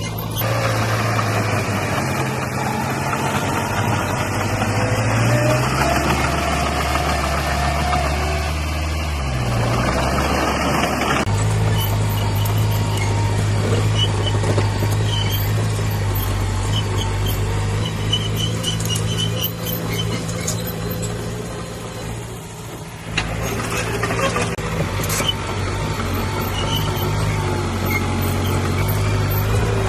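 Diesel engine of earthmoving machinery running under working load, its pitch rising and falling as the revs change. The sound changes abruptly about eleven seconds in and again about twenty-three seconds in.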